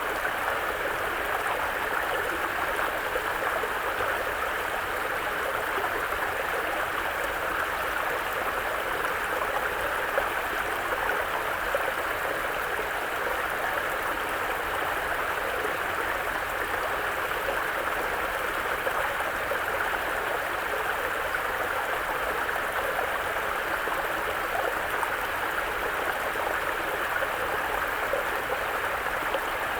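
Small mountain brook flowing: a steady, unbroken murmur of running water.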